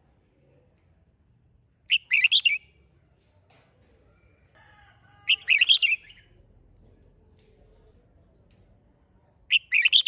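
Red-whiskered bulbul singing three short, loud song phrases a few seconds apart, one about two seconds in, one in the middle and one near the end.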